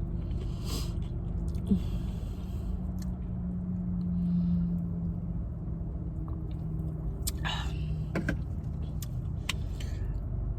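Steady low rumble and hum inside a parked car's cabin, with scattered small clicks and soft noises of someone eating from a bowl.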